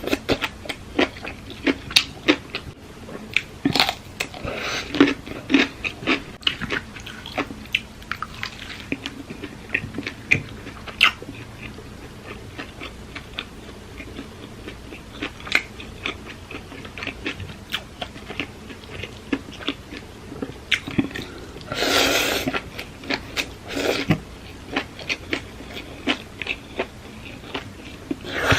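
A person eating papaya salad with squid and baby octopus close to the microphone: irregular wet chewing, crunching and lip-smacking clicks, with a longer, louder burst about three-quarters of the way through.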